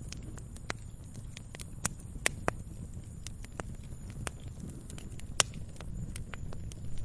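Wood fire crackling: irregular sharp pops and snaps, one louder snap about five seconds in, over a steady low rumble.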